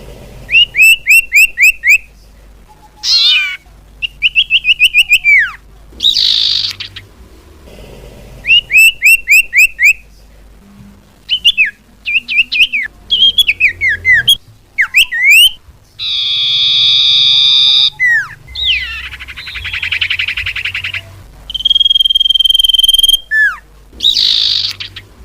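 Common iora calls from a bird-lure recording. There are quick runs of clear, repeated whistled notes and sliding whistles that rise or fall, a harsh buzzy call about two-thirds of the way through, and one long steady whistle near the end. The calls come in loud phrases with short pauses between them.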